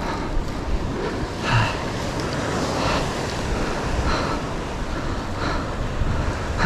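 Wind buffeting the microphone over the wash of ocean surf, with a softer sound recurring about every second and a half.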